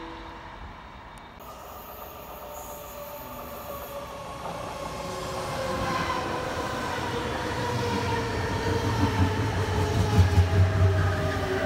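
Electric passenger train running in along the platform, getting louder as it comes alongside. Its whine falls slowly in pitch as it slows, over a growing wheel rumble with a few knocks near the end.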